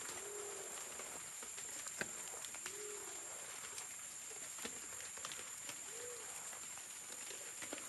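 A forest pigeon cooing: a single low, arched hoot repeated about every three seconds, three times. A steady high-pitched whine and scattered small clicks run underneath.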